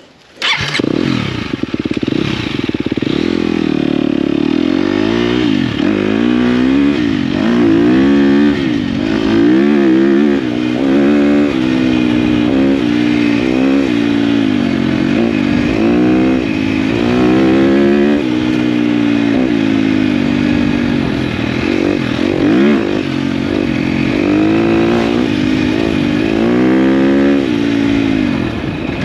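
KTM dirt bike engine pulling away and then being ridden along a track, its pitch rising and falling over and over as the throttle opens and closes through the gears.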